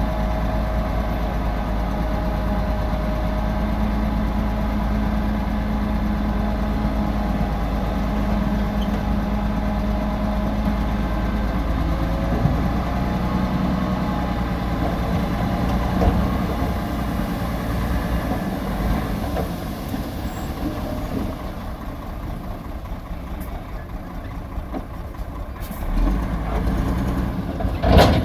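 Heavy diesel engine of earthmoving machinery running steadily. Its pitch shifts about twelve seconds in and it eases off later. There is a short knock partway through and a sharp, loud knock near the end.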